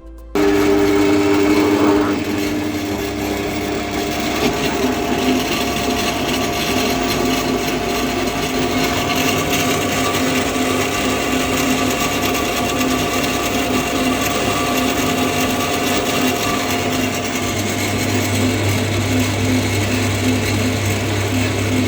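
A power tool running steadily and without pause, with a brief dip just at the start.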